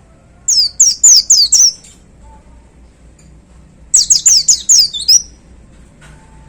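White-eye (pleci) singing: two quick bursts of about five high notes, each sliding down in pitch, the bursts about three seconds apart.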